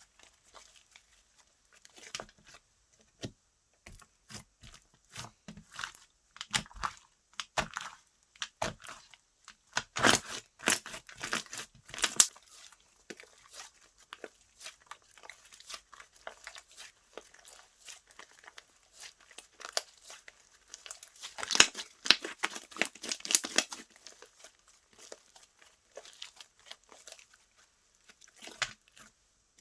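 Hands squeezing, stretching and folding slime, making rapid clicky pops and crackles. There are dense flurries about a third of the way in and again past two-thirds.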